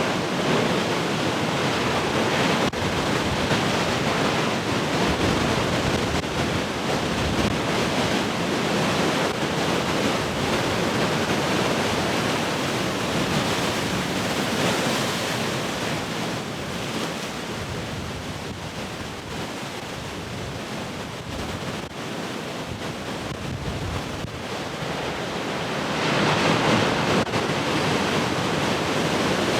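Large ocean waves breaking and rushing continuously, easing off in the middle and building again near the end as a new set of waves comes in, with wind buffeting the microphone.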